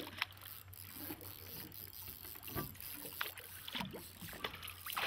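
Low steady hum of a boat's engine idling, with faint scattered clicks and knocks. A rush of splashing water starts right at the end.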